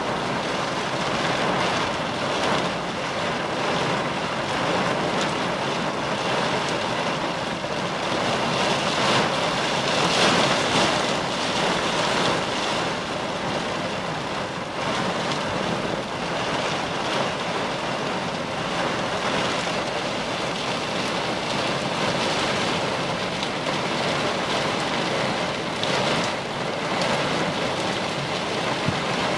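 Steady rushing noise of rain and wet-road tyre noise heard from inside a car.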